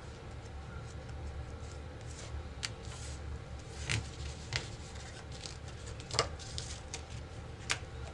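Playing cards being laid down on a table, about five sharp snaps of cards hitting the table spread over several seconds, with light rustling of cards in between, over a low steady hum.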